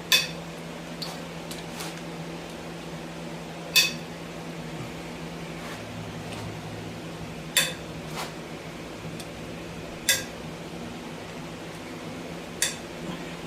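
A socket wrench working the cylinder head bolts of a Chevy 350 small-block: about five sharp metallic clinks of steel tools on the engine, a few seconds apart. A steady low hum runs underneath.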